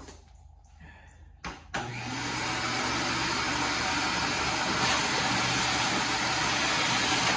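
A shop vacuum switched on with a knock about two seconds in, its motor then running steadily with a loud rushing noise and a low hum.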